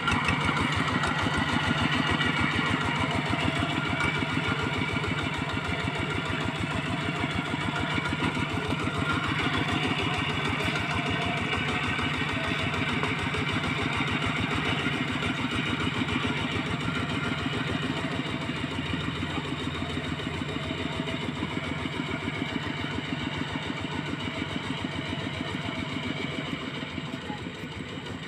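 Small tractor's engine running steadily with a rapid, even chugging, growing quieter over the last few seconds.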